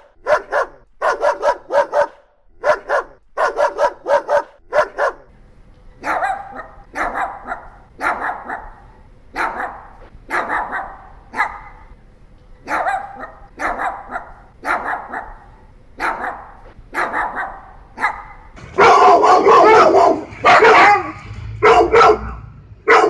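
Dogs barking. Short sharp barks come in quick clusters at first, then single barks about one a second from around six seconds in, and louder, denser barking near the end.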